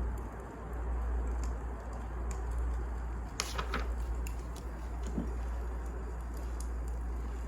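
Wood fire burning in a fireplace: a steady low rumble with scattered crackles and pops, and a small cluster of sharper pops about halfway through.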